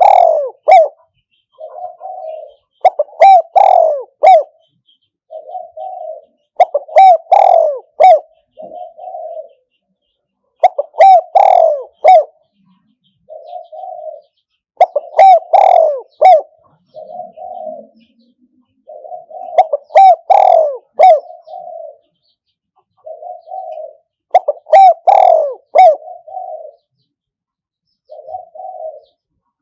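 Spotted dove cooing, a decoy bird's territorial call: a loud multi-note coo phrase about every four seconds, each followed by a shorter, quieter coo.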